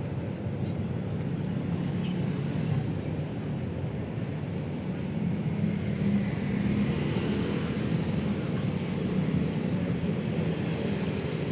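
Steady rumble of city street traffic, swelling slightly about halfway through.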